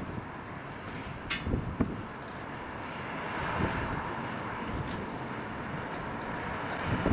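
Outdoor city ambience: a steady hum of distant traffic, with low gusts of wind on the microphone.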